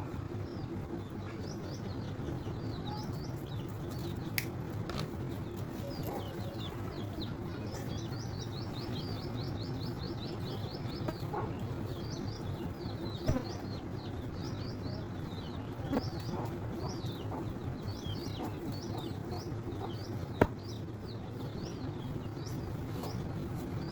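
Small birds chirping over and over in short high notes, with a quick run of chirps about eight to eleven seconds in. A steady low rumble lies underneath, and a few sharp clicks stand out, the loudest about twenty seconds in.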